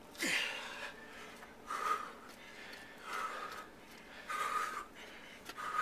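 A man breathing hard from physical exertion: five gasping breaths, evenly spaced.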